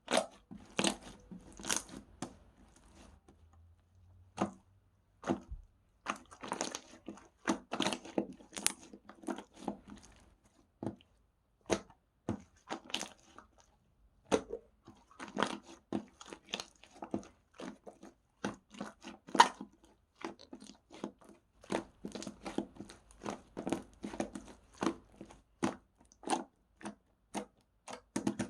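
Strawberry slime squished and stretched by hand, making irregular sticky crackles and clicks, with a short pause about four seconds in.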